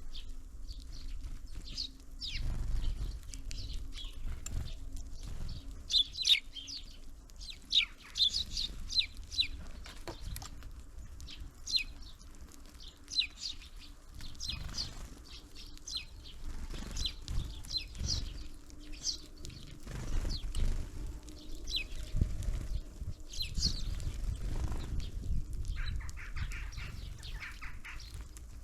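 Small birds at a winter feeder giving many short, high chirps, with a quicker run of notes near the end, over a low rumble and soft thumps.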